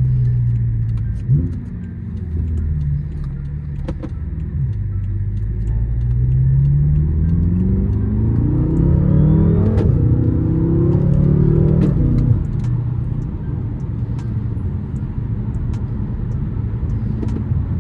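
BMW M6 engine running while driving in traffic. Its low note climbs steadily in pitch as the car accelerates from about five seconds in to about twelve, then drops back to a steady cruise.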